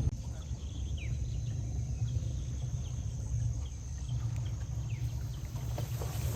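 Rainforest ambience by the river: a thin, steady high-pitched insect drone, with short falling bird chirps scattered through it over a steady low rumble.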